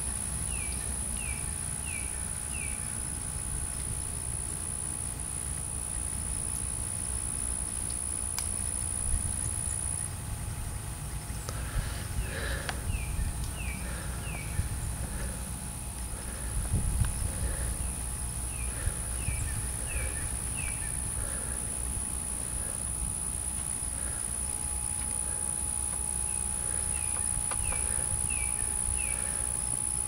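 Outdoor ambience: a bird repeats a short phrase of four quick falling notes several times, over a steady low rumble and a thin high-pitched whine.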